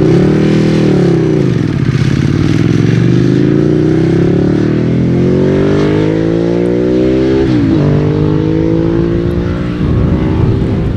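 Ducati Streetfighter's V-twin engine under acceleration, its pitch climbing steadily through the revs, with a quick drop and recovery about three quarters of the way through as it shifts up a gear.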